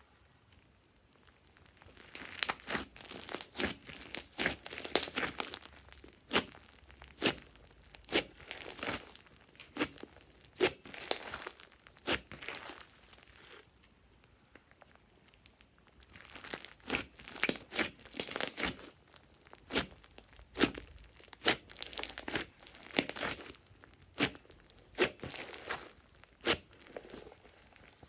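Glossy slime being mixed and stretched, giving sticky crackles and sharp irregular pops. There are two busy stretches with a short lull near the middle.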